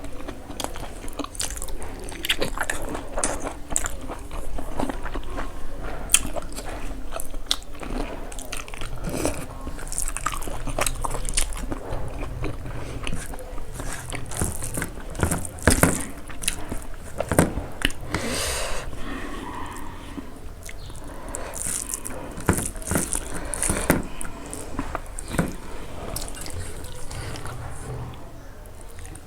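Close-up eating sounds: chewing and biting into fried pork and rice, with wet mouth smacks and irregular crunches.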